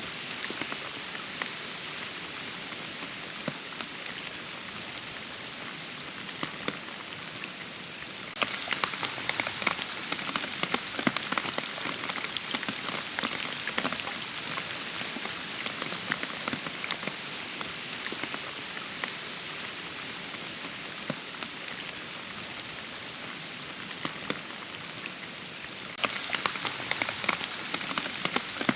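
Steady rain falling, with many distinct drop hits over a continuous hiss. It grows heavier about eight seconds in, then eases, and grows heavier again near the end.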